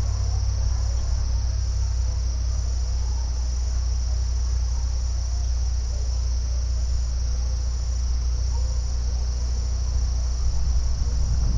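A steady, unbroken chorus of crickets trilling high, over a constant low rumble.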